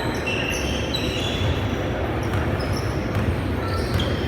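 Basketball game in play: sneakers squeaking on the court in many short high squeaks, over the ball bouncing and the general noise of play.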